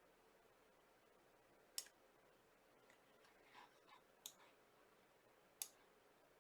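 A few faint, sharp clicks at a computer, three of them spread over the seconds with softer ticks between, in near silence.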